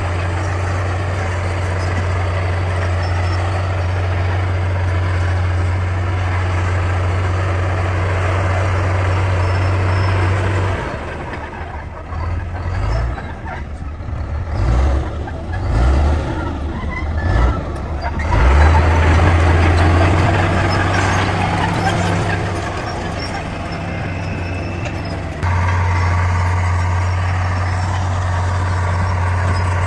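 Heavy diesel engine of a bulldozer running steadily with a deep low hum. In the middle it turns uneven for several seconds, with irregular low thumps and surges, before the steady running returns.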